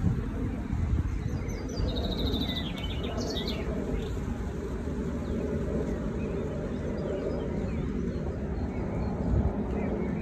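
A small songbird chirps a quick run of high notes about two to three seconds in, over a steady low outdoor rumble.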